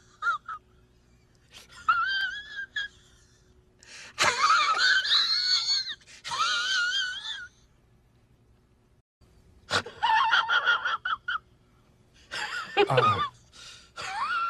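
A run of short meme sound-effect clips played one after another with brief pauses between them: high, wavering, wheezy voice-like squeals and gasps.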